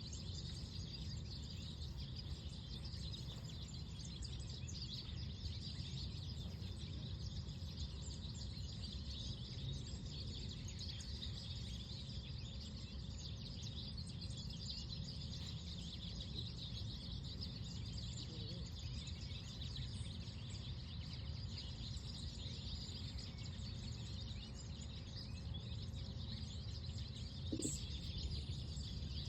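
Outdoor park ambience: a steady low rush of wind with small birds chirping throughout, and one brief short sound near the end.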